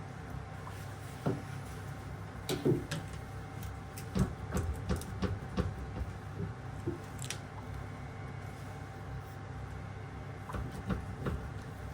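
Scattered light clicks and knocks, like small hard parts or tools being handled, clustered around the middle and again near the end, over a steady low hum.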